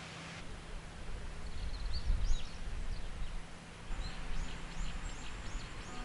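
Outdoor ambience: small birds chirping in short, quick calls that come more often in the second half, over an uneven low rumble.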